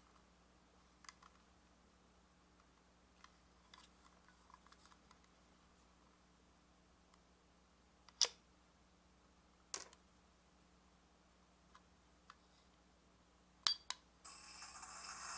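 Light plastic clicks and taps from a miniature capsule-toy microwave being handled, with a few sharper clicks. Near the end, after a quick double click, its built-in sound effect starts: a steady electronic buzzing hum imitating a microwave running.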